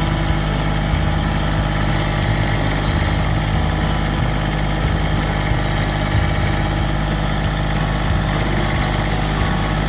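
Massey Ferguson GC1723E subcompact tractor's diesel engine running steadily.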